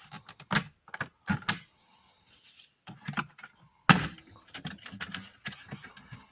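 Plastic dashboard trim panel being pried off with a flat screwdriver, its snap-in clips clicking loose, with a run of sharp plastic clicks and knocks; the loudest knock comes about four seconds in.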